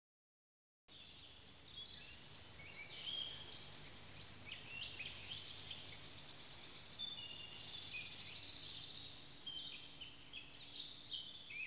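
Several songbirds singing and calling at once, many overlapping short chirps and trills, starting suddenly about a second in out of silence.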